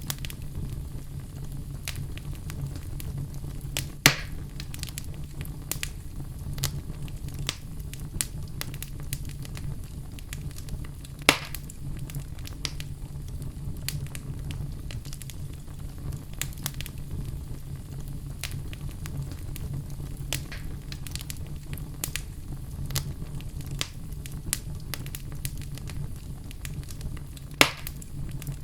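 Wood fire crackling steadily over a low rumble of flames, with frequent small snaps and three loud pops, at about 4, 11 and 27 seconds in.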